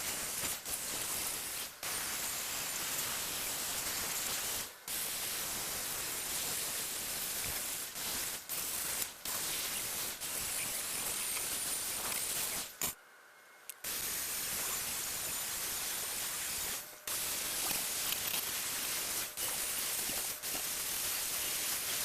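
A spray nozzle hissing in long bursts, stopping briefly a dozen or so times and for about a second once, about two-thirds of the way through, as the trigger is let off.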